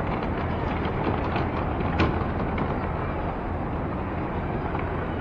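Steady city street noise, wind on the microphone and traffic, with one sharp click about two seconds in.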